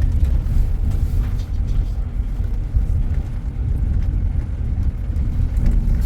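Road vehicle in motion: a steady low rumble of engine and road noise.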